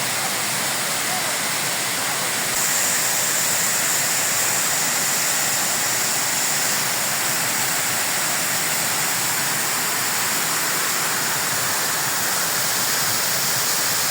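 Tall waterfall, about 48 m high, with falling water rushing steadily, growing a little louder and brighter about two and a half seconds in.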